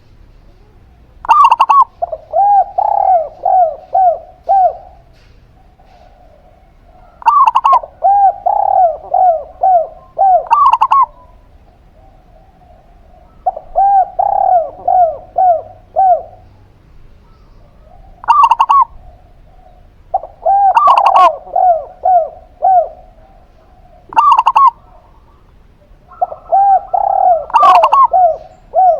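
Zebra dove and spotted dove cooing in repeated phrases. Most phrases open with a sharp higher note and run on into four to six quicker, lower rolling coos, and two are brief single notes, with pauses of a second or two between phrases.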